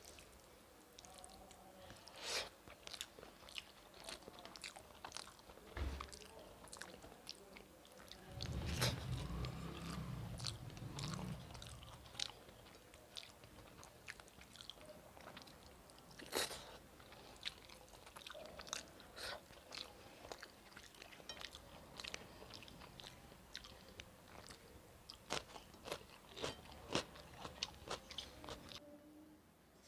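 Close-miked eating: chewing with many short wet clicks and lip smacks while a person eats rice with spicy chicken and potato curry. A louder low rumble lasts a couple of seconds about nine seconds in.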